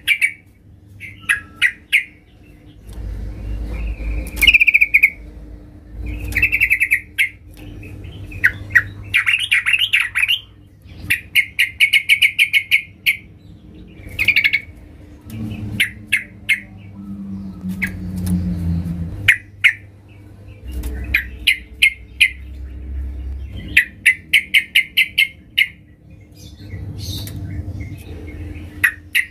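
Female yellow-vented bulbul (trucukan) calling: many short, rapid chattering phrases repeated with brief pauses and interspersed with sharp clicks. It is the call used to draw males to answer. A steady low hum and a low rumble run underneath at times.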